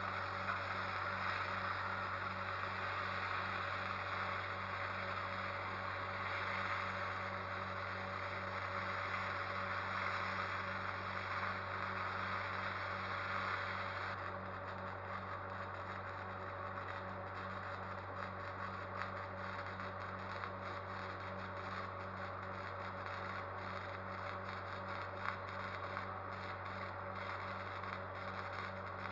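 A steady low machine hum with a hiss. About halfway through, the hiss drops and a faint, fast, irregular crackling sets in.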